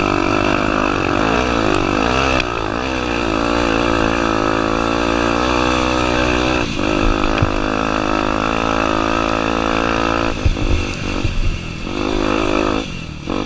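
Honda Tornado 250's single-cylinder four-stroke engine ridden hard off-road, the revs rising and falling repeatedly. About ten seconds in the revs drop and a few knocks are heard.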